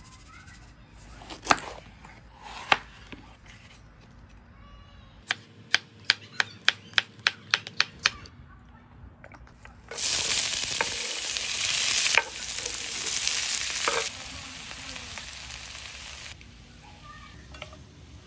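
Sliced onions hitting a hot cast-iron skillet and sizzling loudly about halfway through, the frying dying down over several seconds as onions and bell peppers are stirred with a wooden spoon. Before that, two sharp knocks and a quick run of about ten clicks.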